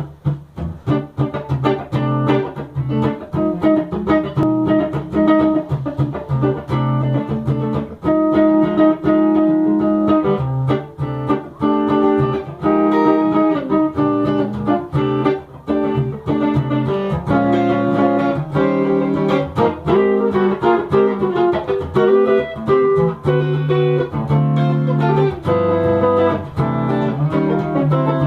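Instrumental guitar music: a steady run of picked notes, with a melody over a bass line.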